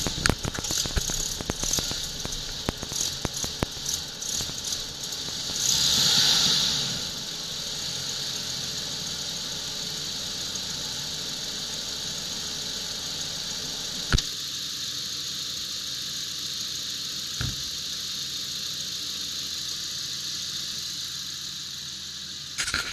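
Jaguar V12 engine misfiring and running unevenly, with many sharp clicks for the first several seconds and a short swell in level about six seconds in, then settling into a steadier idle with two single knocks. The engine is reluctant to run at low throttle.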